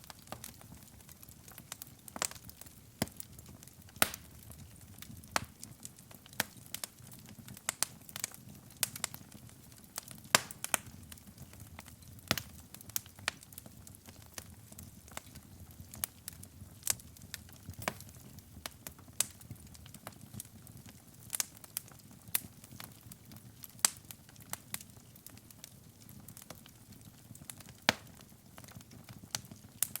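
Wood fire burning in a fireplace: irregular sharp crackles and pops, several a second at times, over a soft low rumble of the flames.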